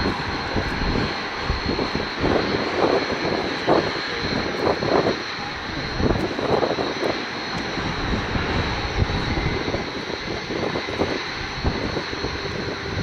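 Red Arrows' BAE Hawk T1 jet engines running steadily, a broad rushing noise with a constant high-pitched whine.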